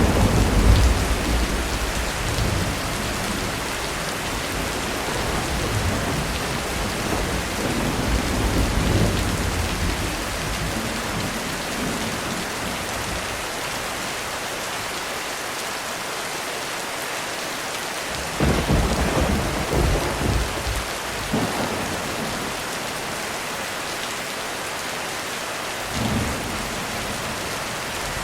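Heavy rain falling steadily on a roof, with rolling thunder. Low rumbling fades early on, a louder peal of thunder breaks about two-thirds of the way through, and a brief rumble follows near the end.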